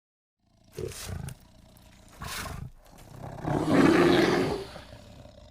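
A big cat roaring: two short calls, then a longer, louder roar about three and a half seconds in that trails away.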